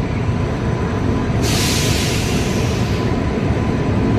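Train running with a loud, steady low rumble; a broad hiss joins about a second and a half in and holds.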